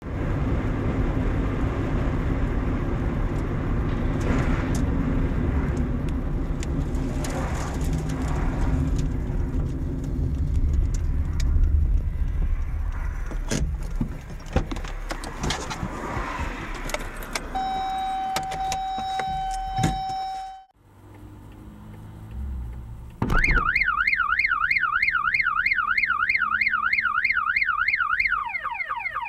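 Car road noise, a low steady rumble with scattered knocks and clicks, then a steady electronic beep for a few seconds. After a short drop, a car alarm starts wailing in a fast warble and switches to a different siren tone near the end.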